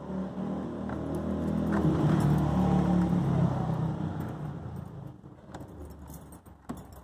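A car engine running nearby, swelling to its loudest a few seconds in and then fading away, with a few light clicks and jangles.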